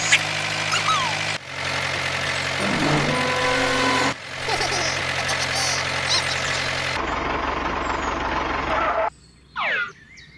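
Tractor engine sound effect running steadily under a dense hiss of background noise, spliced in segments that change abruptly about one and a half, four and seven seconds in. It cuts off about nine seconds in, leaving quieter ambience with a short swooping sound.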